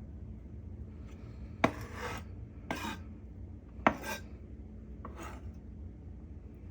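About four short rasping scrapes of kitchen handling, spread over several seconds, over a low steady background hum.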